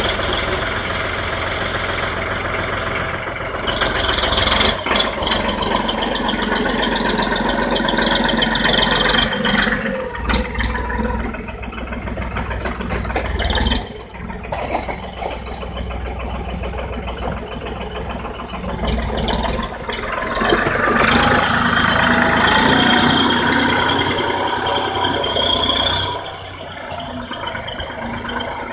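Erkunt farm tractor's diesel engine running with a tractor-driven manure spreader rattling. The engine picks up about four seconds in and again around twenty seconds in, then settles lower near the end.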